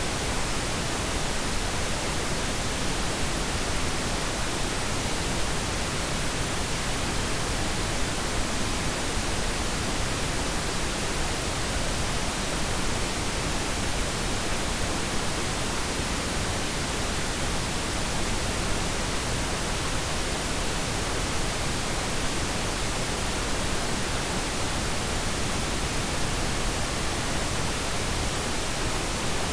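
Steady pink noise: an even, unchanging hiss spread evenly from low to high pitches, with no breaks or variation.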